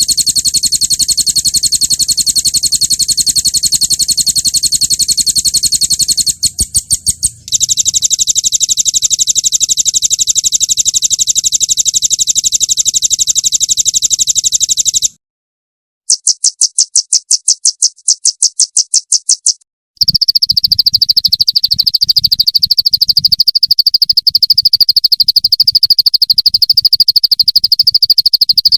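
Songbird 'roll tembak' trills for bird training: long runs of very fast, high-pitched repeated notes, like rapid fire. The runs are spliced together, with short breaks about halfway and about two-thirds through. After the second break a lower, steadier trill carries on.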